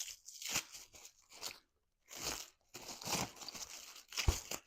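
Cellophane wrapping being crinkled and torn open by hand in irregular crackling bursts, with one sharp knock near the end.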